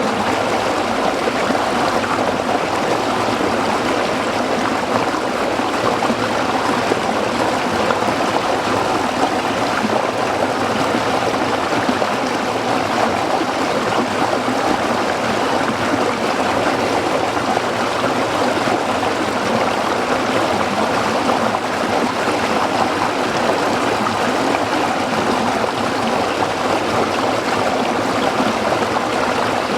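Small stream of water flowing steadily over rocks, a continuous babbling rush.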